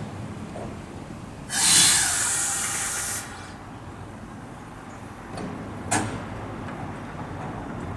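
Nose Electric Railway 1700 series train standing at the platform: a burst of compressed-air hiss lasting about a second and a half, followed by two short knocks a little over halfway through.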